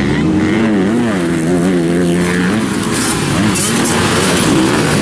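Motocross dirt bike engines racing on the track, their pitch rising and falling as the riders open and close the throttle, held steady for a stretch in the middle.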